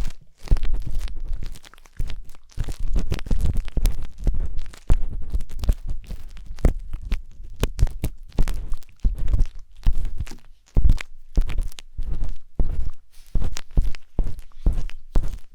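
Wooden skewer scraping and rubbing in the ear of a 3Dio binaural microphone, in quick irregular strokes with a dull low thump in each.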